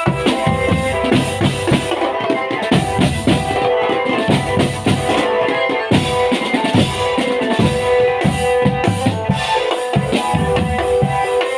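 Marching drum band playing: snare and bass drums beat a fast, busy rhythm under a held melody.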